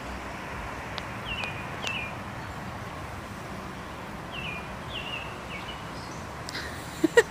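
A small bird calling with about six short, high chirps over a steady outdoor background hiss, with two brief loud sounds right at the end.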